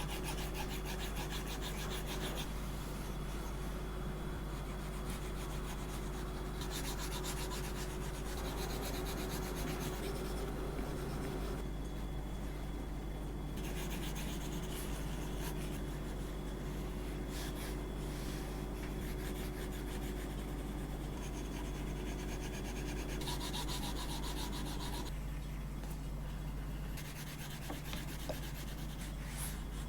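Stylus strokes rubbing and scratching across an iPad Air's screen, coming in stretches of a few seconds over a steady low hum.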